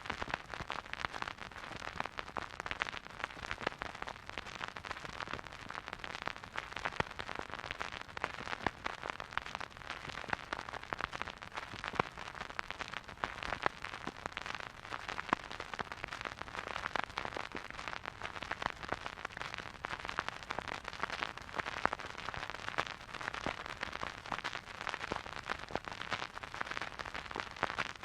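Vinyl record crackle: a stylus riding a silent groove, giving dense, irregular clicks and pops over a steady surface hiss, with no music.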